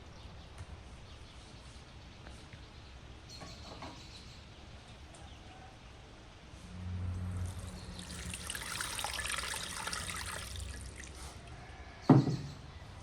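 Water pouring and splashing for about four seconds, starting about halfway in, then a single sharp knock near the end.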